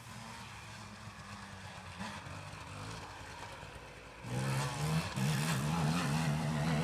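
Motocross bike engines running faintly, then much louder from about four seconds in, with the pitch rising and falling as the throttle is worked.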